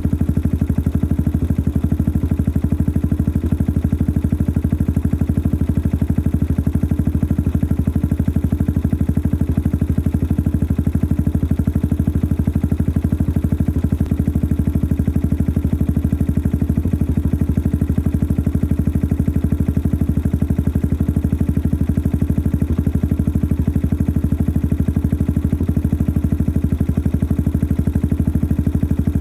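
Yamaha XT 600 43F single-cylinder four-stroke engine idling steadily through a modified stock exhaust, a rapid, even pulsing with a noisy mechanical clatter.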